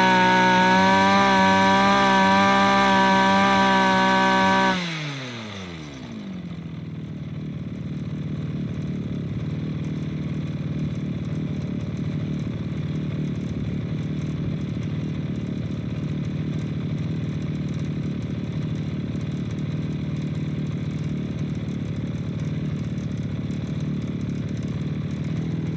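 Small two-stroke engine of a gas lawn edger held at high revs, then the throttle is released about five seconds in and the revs fall to a steady idle that carries on. The owner says its clutch is not working too well.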